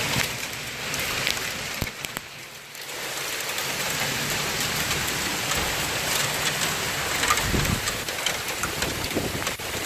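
Hailstones pelting a car, heard from inside the cabin: a dense, steady patter of many small hard hits, easing briefly about two seconds in.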